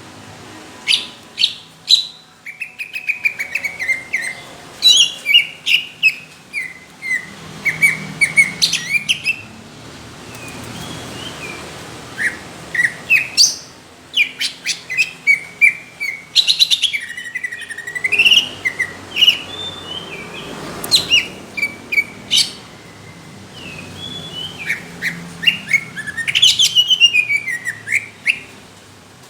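Greater green leafbird (cucak ijo) singing a loud, varied song: bursts of quick sharp chirps and sweeping whistled notes, broken by short pauses.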